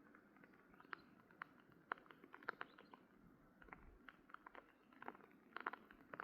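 Faint, irregular light taps and clicks, several a second, with no steady sound under them.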